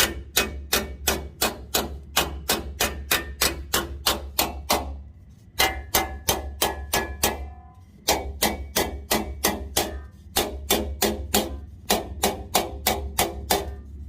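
A hammer beating a sheet-metal motorcycle fender into shape, about four ringing blows a second, with a thinner stretch of a few seconds midway.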